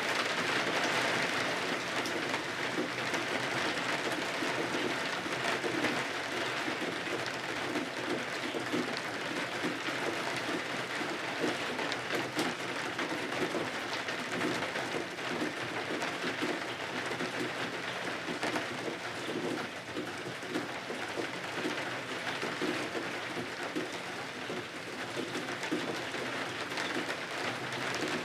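Steady rain falling against the windows: a dense, even patter that holds throughout.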